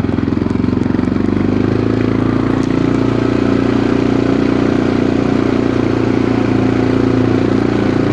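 Quad bike's small single-cylinder engine running steadily while riding at a constant pace, with a faint rattle of the machine.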